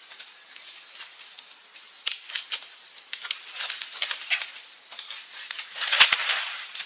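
Dry leaves and twigs rustling and crackling in irregular bursts, as when forest litter or branches are handled, with the loudest crackle and a couple of dull knocks about six seconds in.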